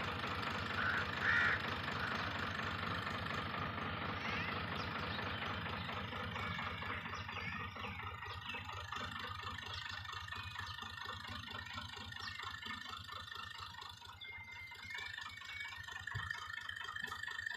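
Al-Ghazi farm tractor's diesel engine running steadily with a fine, even pulse of firing strokes, gradually getting quieter as it goes.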